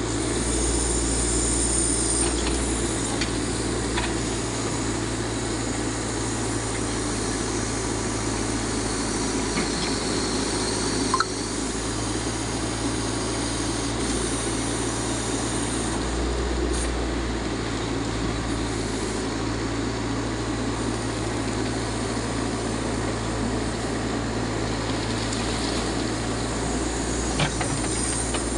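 Backhoe loader's diesel engine running steadily as it digs, with a sharp clank about a third of the way in and another near the end.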